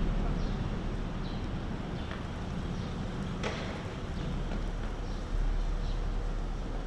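Footsteps of someone walking on a path, about one step a second, over a steady low rumble of the city.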